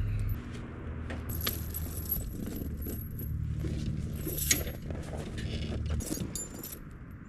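Steel tire chain links jingling and clinking as they are handled and fitted onto a lawn tractor tire, over a low steady rumble that drops away about six seconds in.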